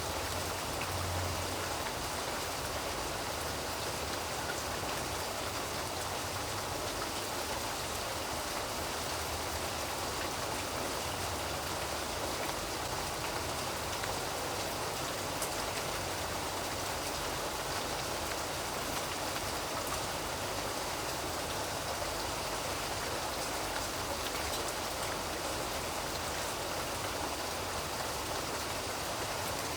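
Steady, dense rainfall with scattered drops pattering on a surface.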